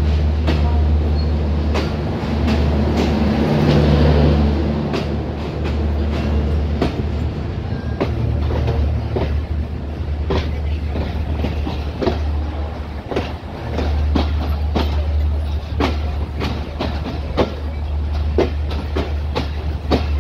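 Titumir Express passenger coaches rolling out of the station, heard from an open coach doorway. The wheels click over rail joints and points above a steady low rumble.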